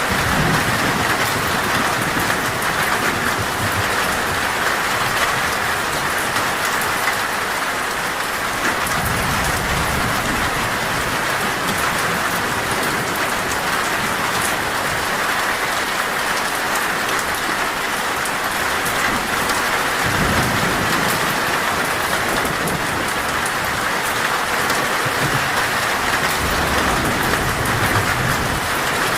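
Heavy, torrential rain drumming steadily on a metal roof, with low rumbles of thunder swelling now and then, about a third and two thirds of the way through.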